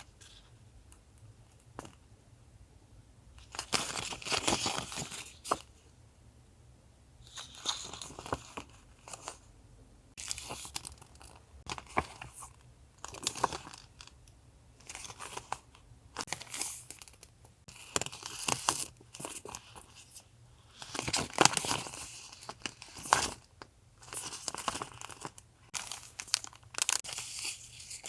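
Paper and plastic packaging rustling, crinkling and tearing as sticker and journaling items are handled and unpacked. It comes in short, separate bursts with brief pauses between them.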